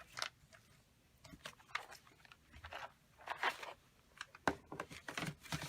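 Paper being handled: short, irregular rustles and crinkles, several times over.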